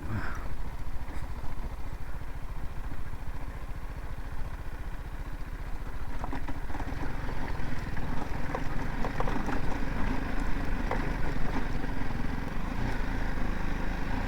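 BMW G 310 GS single-cylinder engine running as the motorcycle rides over a rough unpaved stretch, a steady low rumble that grows a little louder about six seconds in.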